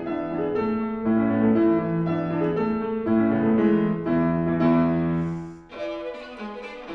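Acoustic piano playing a passage of struck chords, with a brief break about five and a half seconds in.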